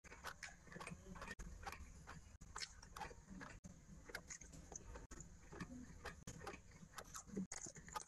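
Close-miked chewing and biting of a soft sweet eaten by hand: a faint run of small, irregular wet clicks and mouth smacks.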